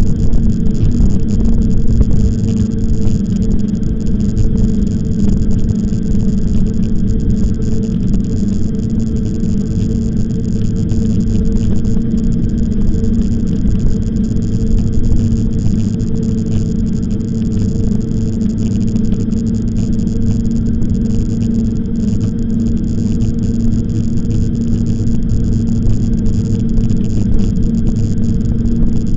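Loud, steady wind rumble on the microphone of a moving e-bike, with riding noise and a steady hum throughout.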